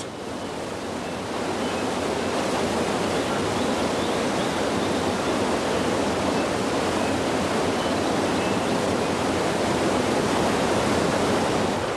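Steady rush of fast-flowing water, swelling up over the first couple of seconds and then holding even.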